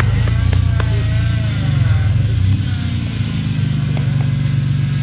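A vehicle engine running steadily with a low, even rumble, easing off slightly about halfway through.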